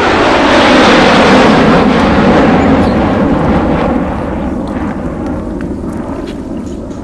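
Heavy truck engine running hard, a loud rushing noise that builds over the first second and fades away after about four seconds.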